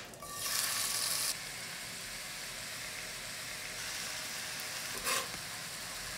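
Chopped, well-fermented kimchi hitting hot vegetable oil in a stainless steel frying pan on medium-high heat: a louder sizzle for about the first second as it goes in, settling into a steady sizzle. A short louder sound about five seconds in.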